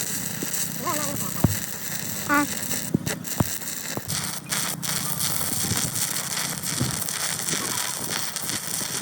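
Steady crackling hiss of metalwork, with a few sharp knocks and faint voices in the background.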